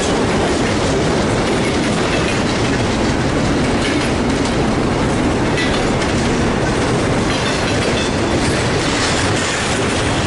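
Intermodal freight train passing close at speed: Norfolk Southern locomotives and then double-stacked container cars, a loud, steady rumble and clatter of steel wheels on the rails.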